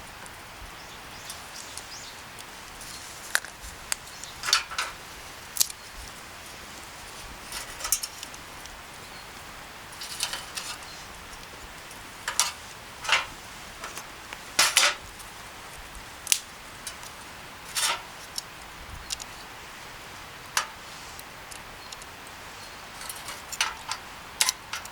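Irregular light clinks and clatters of utensils and dishes, a few at a time, over a steady faint hiss.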